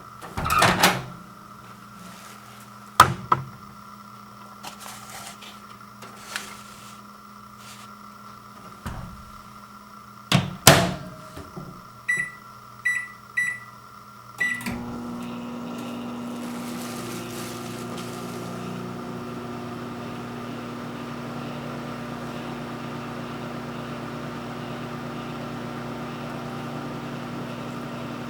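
Microwave oven being loaded and started: a few knocks and a loud clunk like the door shutting, then four short keypad beeps about half a second apart. The oven then starts running with a steady hum that carries on.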